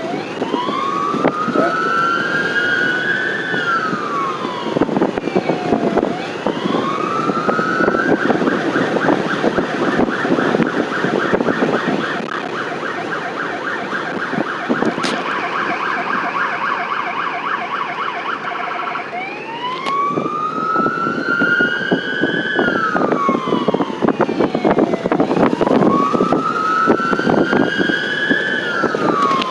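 Electronic emergency-vehicle siren in a slow rising-and-falling wail. About eight seconds in it switches to a fast yelp for roughly ten seconds, then returns to the wail, over the rumble of the vehicle driving.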